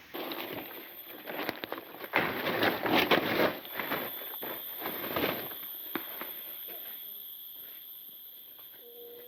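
Crunching and rustling of leaf litter and brush with irregular small cracks, loudest a couple of seconds in and then dying away. A steady, high insect buzz comes in about midway.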